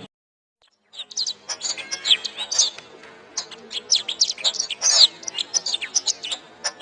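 Domestic canary singing a fast, unbroken song of chirps, trills and whistled sweeps. It starts after about a second of dead silence.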